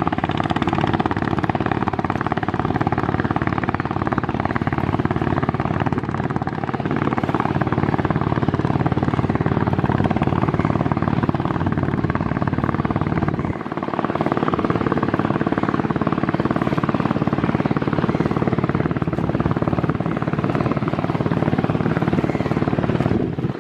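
Steady engine noise of a river passenger launch under way, a continuous low throb. It dips briefly about halfway through, then carries on.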